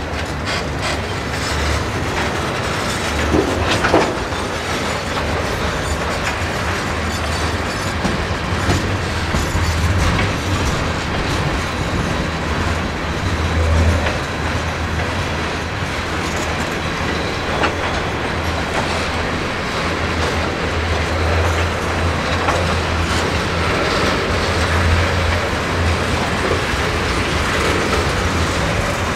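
Freight train's autorack and tank cars rolling past: steady rumble of steel wheels on rail, with a few sharp clacks about 4, 14 and 18 seconds in.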